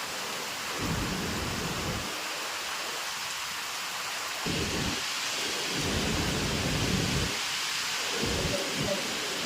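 Heavy rain falling in a steady hiss, with low rumbles swelling and fading every second or so.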